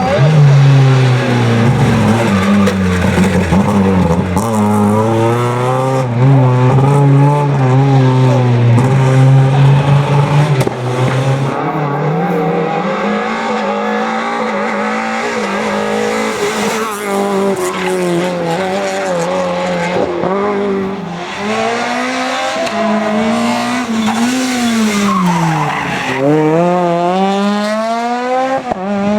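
Rally car engine at hard throttle, its pitch climbing and dropping again and again through gear changes and lifts, with tyres squealing as the car slides through the stage.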